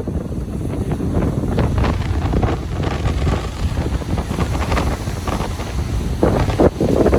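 Ocean surf breaking on a beach, a steady low rumble of waves with wind buffeting the microphone; a louder wash of water comes in about six seconds in.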